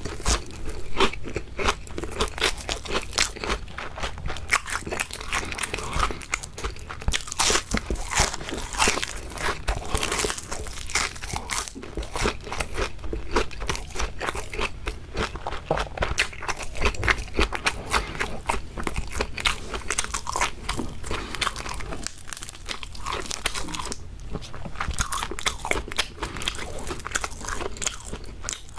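Close-miked eating of crispy fried shrimp: repeated crunching bites and chewing of the battered coating, with a dense crackle throughout and a short lull about three-quarters of the way in.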